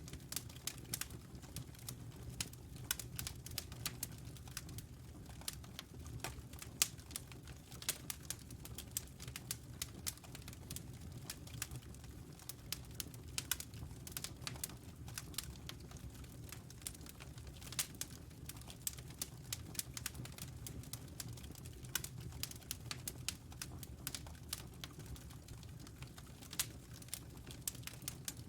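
Wood fire crackling in a fireplace: rapid, irregular sharp pops and snaps over a steady low rumble of the flames.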